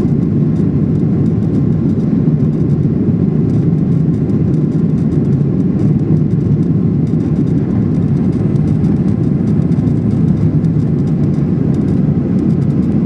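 Steady cabin noise of a Boeing 737-800 airliner in flight: its two CFM56 jet engines and the airflow make a loud, even, low drone that holds constant throughout.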